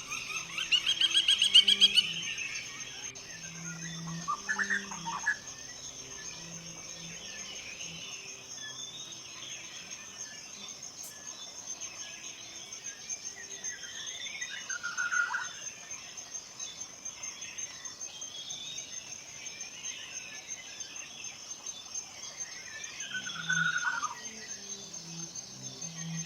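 Forest birds calling over a steady high insect buzz. A fast, loud trill comes in the first two seconds, then short falling calls about 4, 15 and 23 seconds in.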